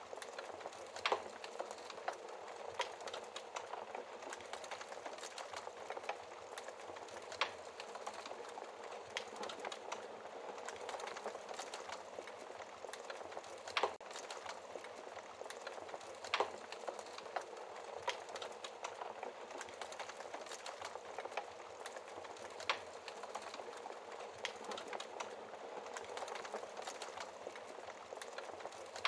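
Wood fire burning in a fireplace: a steady soft hiss with frequent small crackles and a few louder, sharper pops.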